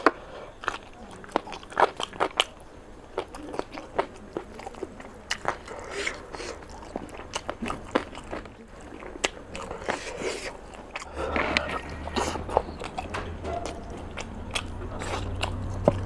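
Close-miked wet chewing and lip smacks of a person eating rice and curry by hand, with many short sharp clicks, mixed with the squelch of fingers working rice into curry gravy.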